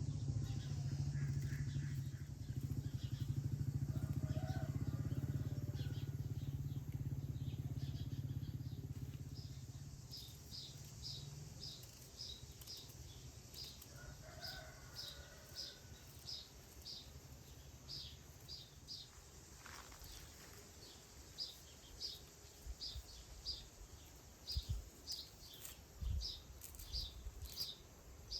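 A low rumble that fades away over the first ten seconds or so, then a small bird chirping over and over, two or three short high chirps a second, with a few soft thumps near the end.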